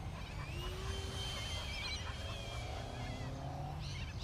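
Birds calling: several overlapping squawks and warbling calls, some gliding up in pitch, over a steady low rumble.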